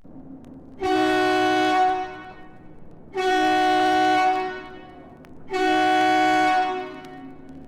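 A horn sounding three blasts of about a second each, evenly spaced, each a rich chord-like tone that starts and stops sharply.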